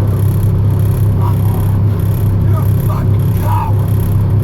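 Steady low drone of a semi-truck's diesel engine heard from inside the cab, with a few faint fragments of a voice over it.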